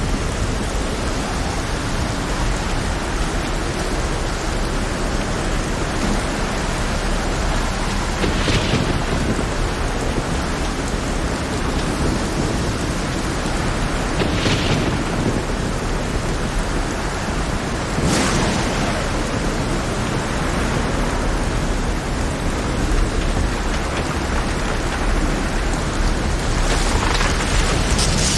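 Heavy rain pouring steadily over a stormy sea with a constant low rumble, broken by a handful of sharp crashes spaced several seconds apart, two of them close together near the end.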